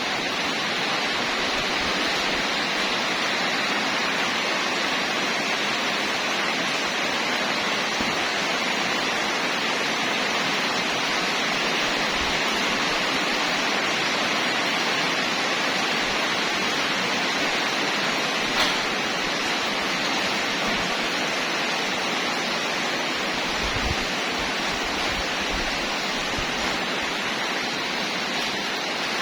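Steady, loud rushing noise, like a fan or blower running constantly, with a faint high whine. There is one sharp click about two-thirds of the way through and a few low thumps shortly after.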